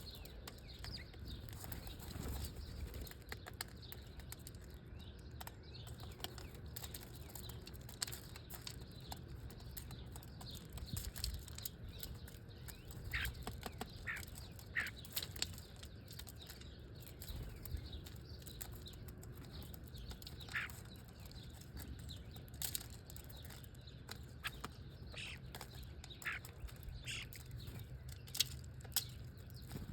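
Birds flapping their wings, with short, scattered chirps now and then.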